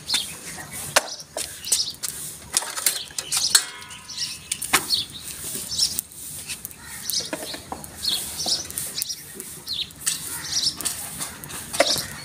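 Birds chirping again and again, with scattered sharp clicks and knocks.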